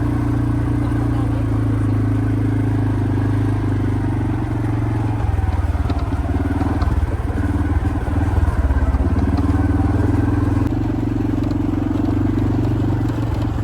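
Quad bike engine running on the move with a steady hum; about five seconds in it turns rougher and a little louder for several seconds, then settles back to a steady note.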